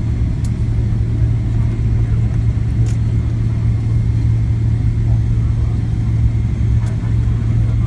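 Steady low rumble inside the cabin of a Boeing 777-300ER airliner around landing, with a strong even hum and a few faint clicks.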